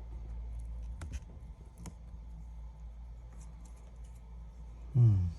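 Scattered light clicks and taps of small repair tools handling a tablet's LCD panel, over a steady low hum. A short vocal sound comes near the end and is the loudest thing.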